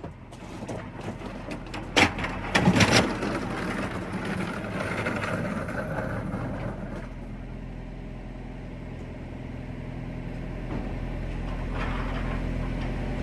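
Tractor-trailer's diesel engine running steadily, with a sharp knock about two seconds in and a short clatter of knocks just after. The engine gets a little louder near the end.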